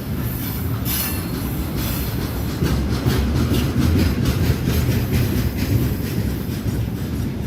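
Train running past on the rails: a steady low rumble of wheels with repeated clacks over the rail joints, thickest in the middle of the stretch.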